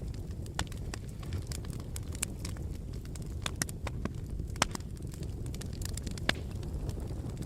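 Wood fire burning in a fireplace: a steady low rumble of the flames with irregular sharp crackles and pops, a couple of louder snaps about halfway through and near the end.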